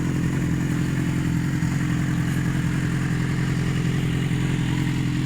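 Yamaha XJ6 Diversion's 600 cc inline-four, fitted with an aftermarket exhaust, idling steadily.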